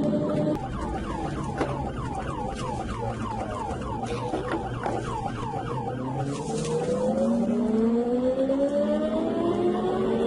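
Police siren in fast yelp mode, about three rising-and-falling sweeps a second, over engine and road noise. In the second half an engine note climbs steadily as a vehicle accelerates hard.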